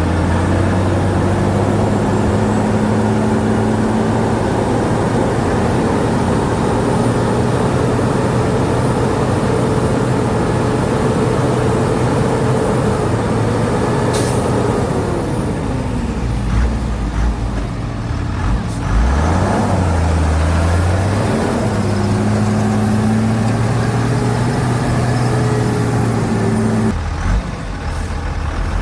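Heavy diesel engine of earthmoving machinery running continuously, its revs rising and falling: it holds high, drops off about halfway through, picks back up, and eases off again near the end. A brief sharp high sound comes about halfway in.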